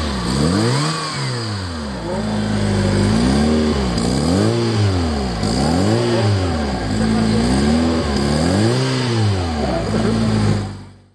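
Fiat Punto 1.2 8V four-cylinder petrol engine, swapped into a Polski Fiat 126p, being blipped repeatedly: about six quick revs that rise and fall, with short spells of idle between. It settles to idle near the end before fading out.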